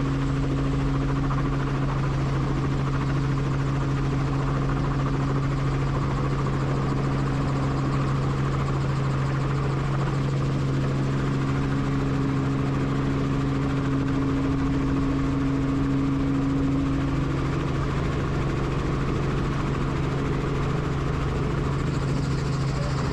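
Helicopter running steadily in flight: the even drone of the rotor and turbine, with a constant low hum and no change in pitch or level.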